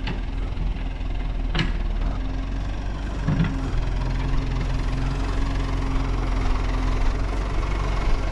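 Backhoe engine running steadily at low revs, with two sharp knocks, one at the very start and one about a second and a half later.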